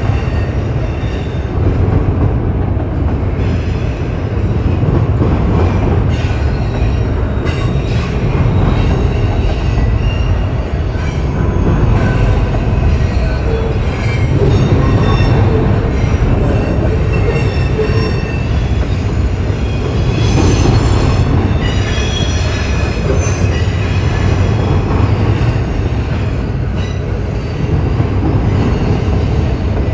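Freight train cars rolling past in a steady heavy rumble, with squealing wheels that come and go in thin high tones and scattered clacks. The squeal is strongest about two-thirds of the way through.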